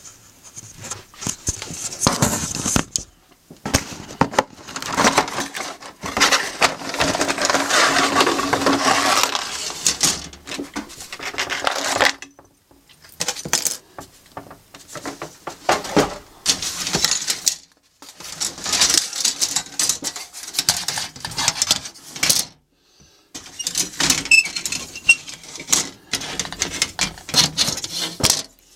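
Plastic model kit parts being handled: sprues clattering and rattling against each other and the box, with rustling, in bursts separated by short pauses.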